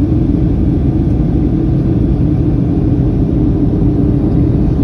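Steady low rumble of a Boeing 737 in flight on landing approach: engine and airflow noise, with a steady hum running through it.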